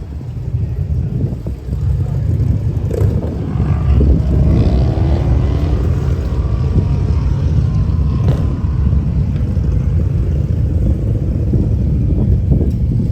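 A vehicle engine under heavy low wind rumble; its pitch rises and falls through the middle of the stretch.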